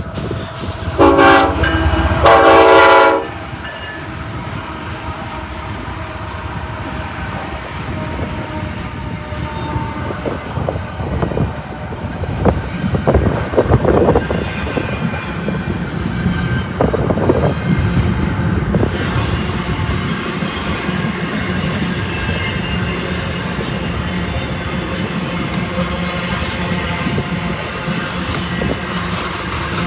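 Freight train's diesel locomotive horn sounding two blasts, the second longer, followed by the train rolling past with a steady rumble and wheels clacking over the rails.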